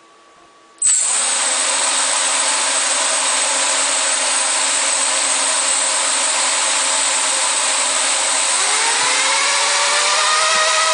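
Brushless motors of a Y6 multicopter start suddenly about a second in and run steadily: a loud whir with a high whine. Near the end a set of rising tones shows the motors speeding up.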